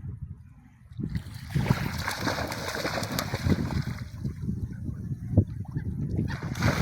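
Sea waves washing onto the shore, their hiss swelling about a second in, easing off, then rising again near the end, over a steady low rumble of wind buffeting the microphone.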